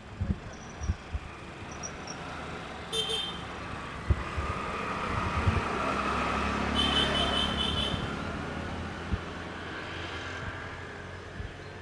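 Road traffic: a motor vehicle passes close by, getting louder and then fading, while horns toot, once briefly about three seconds in and again in a quick run of beeps about seven seconds in.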